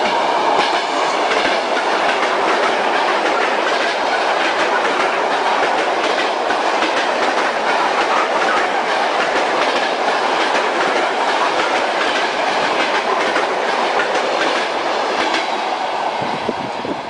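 Moving train, its wheels clattering over the rail joints over a steady rumble of the running carriage.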